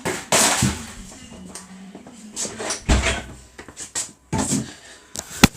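Handling noises: a series of knocks and rustling bumps, ending in one sharp click.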